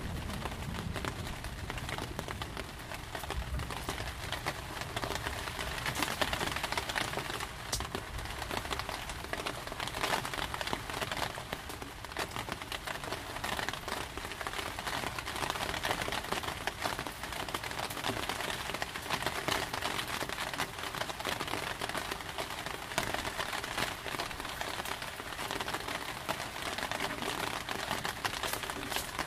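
Heavy rain falling steadily, a dense stream of separate drops ticking on a surface.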